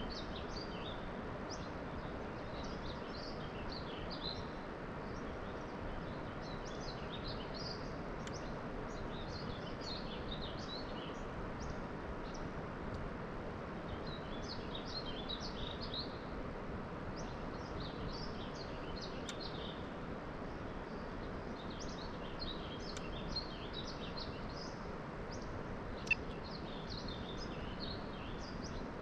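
Small birds chirping in quick runs of high notes, in several spells, over a steady outdoor background hiss. A single sharp click about 26 seconds in.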